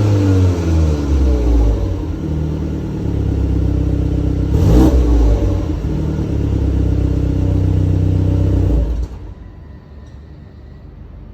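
BMW 330Li's turbocharged 2.0-litre four-cylinder engine revving through its stock exhaust. The revs fall away from a blip at the start, there is one more quick rev about halfway through, then it runs steadily until the engine note cuts off sharply near the end, leaving a faint low hum.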